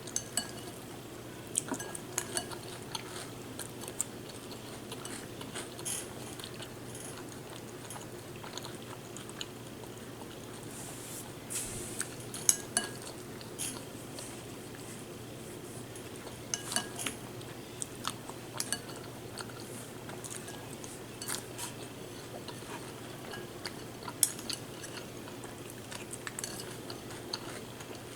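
A spoon clinking and scraping against a cereal bowl, with chewing of cereal, as scattered sharp clicks over a steady low hum.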